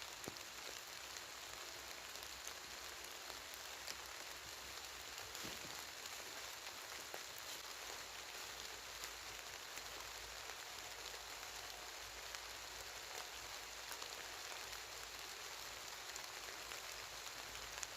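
Rain falling: a steady even hiss with scattered single drops ticking.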